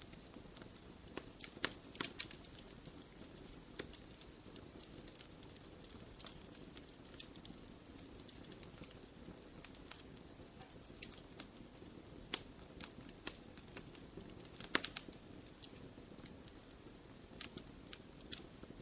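Fire burning in a fireplace, crackling with irregular sharp pops over a low steady rumble; the loudest pops come about two seconds in and again near the three-quarter mark.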